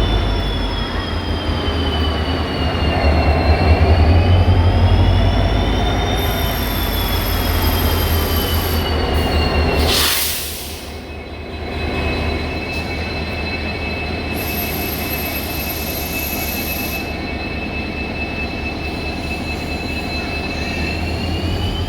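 Passenger train running with a loud low rumble and a high, steady squeal whose pitch dips and rises. About ten seconds in the sound breaks sharply and the rumble continues quieter, the squeal holding one pitch.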